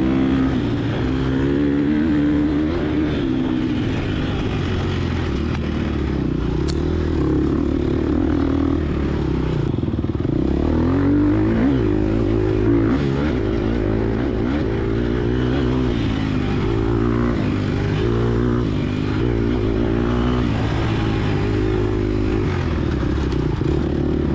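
Gas Gas EX250F dirt bike's single-cylinder four-stroke engine revving, its pitch rising and falling again and again as the throttle opens and closes.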